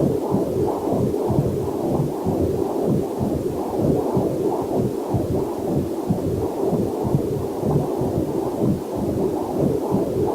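Heartbeat picked up by a fetal Doppler monitor: quick, even pulses, two to three a second, with a faint steady rushing of waterfall noise beneath.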